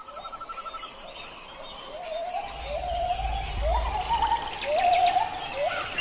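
Forest birds calling: one call repeats about once a second, each sliding up and then holding a wavering note, with faster high chirping coming in during the second half. A low rumble sits under it around the middle.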